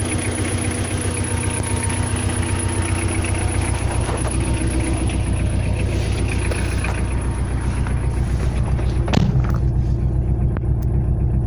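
Tata Indica engine running steadily with a fast, regular pulse, the knocking sound the owner wants a solution for. A single sharp click about nine seconds in.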